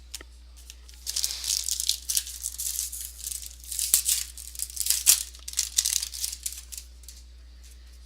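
Foil trading-card pack wrapper crinkling and rustling in irregular bursts as a pack is opened and the cards are handled, with a few sharp clicks.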